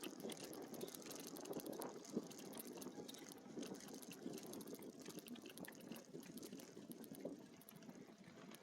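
Faint crackly rolling noise of an e-bike's tyres on a trail, with many light ticks over it.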